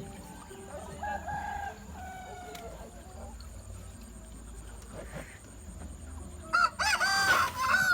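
Chickens calling: fainter pitched calls about a second in, then a rooster crowing loudly near the end.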